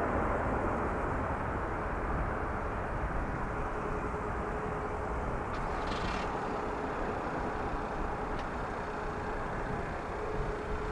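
Jet airliner engines running steadily, a continuous rumble with a faint steady hum through it and a couple of brief clicks midway.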